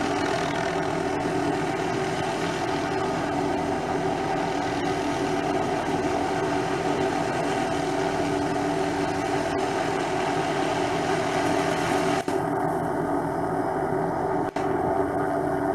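MD500 turbine helicopter running steadily, a continuous engine-and-rotor sound with several held tones. The sound cuts out for an instant twice near the end.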